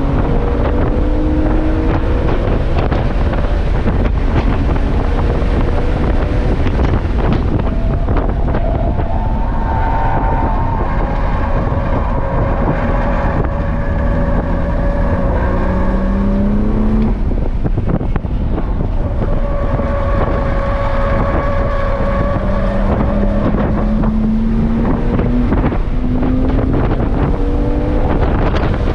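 BMW M2 Competition's twin-turbo straight-six pulling hard on track, its pitch climbing for several seconds, breaking off about seventeen seconds in, then climbing again, under heavy wind noise on the microphone.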